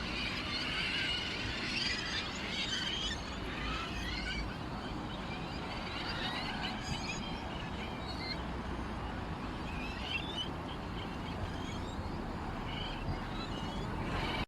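Small birds chirping and twittering continuously, many quick high calls overlapping over a steady low background noise.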